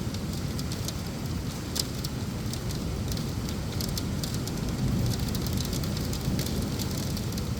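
Heavy monsoon rain pouring down steadily, with many sharp drop hits over a low rumble.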